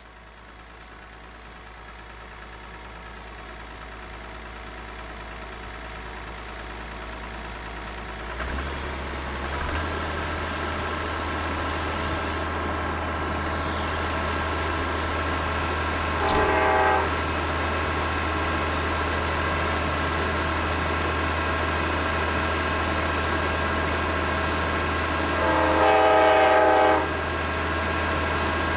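Diesel locomotives approaching and growing steadily louder, their engines running with a deep drone. The locomotive horn sounds a short blast about halfway through, then a longer blast near the end.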